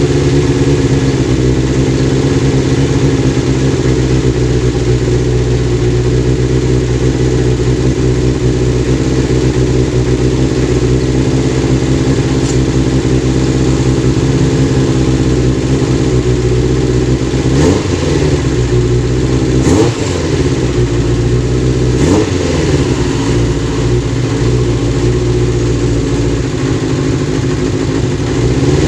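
Kawasaki GPz 400 motorcycle engine running steadily at idle, with a few short throttle blips a little past halfway.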